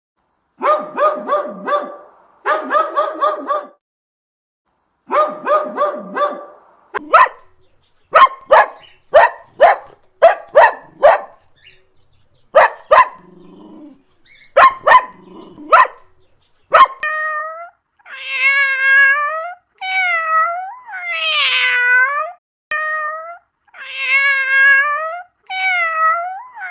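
Dogs barking: first quick runs of high-pitched yaps in groups of a second or so, then single sharp barks about once a second. After about 17 s come a cat's drawn-out meows, one after another.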